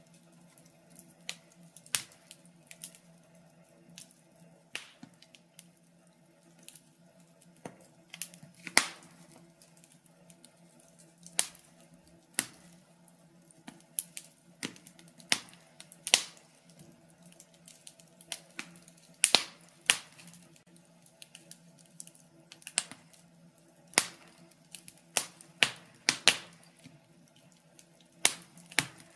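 Wood fire crackling in a fireplace: irregular sharp pops and snaps, one to three every couple of seconds, over a faint steady low hum.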